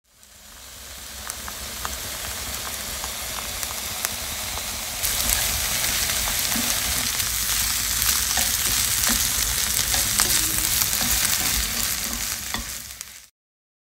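Stir-fried fish cake strips sizzling in oil in a frying pan, a steady hiss with scattered small clicks. It fades in at the start, gets louder about five seconds in, and stops abruptly shortly before the end.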